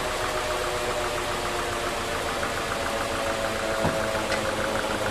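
Sawmill machinery running steadily: a mechanical drone with a fast, even pulse and a single knock about four seconds in.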